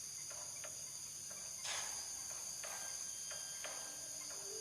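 Crickets chirring steadily in several high-pitched bands, with a few faint clicks or rustles, the loudest one about a third of the way in.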